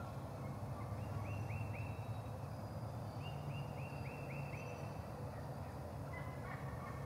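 A bird calling in two quick runs of short, falling notes, about four a second: three notes, then six. A steady low rumble runs underneath.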